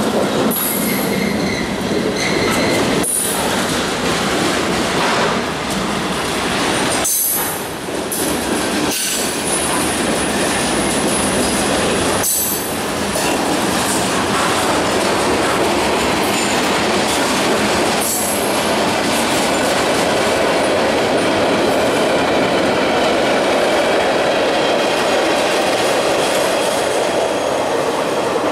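Train passing close by: a steady, loud rumble of wheels on the rails, with high-pitched wheel squeal coming and going.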